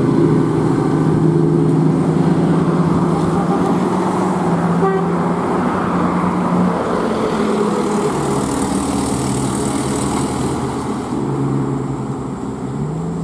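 Komatsu HD785-7 mining dump truck's large diesel engine running with a steady, loud drone; its pitch drops about two-thirds of the way through and climbs again near the end as engine speed changes.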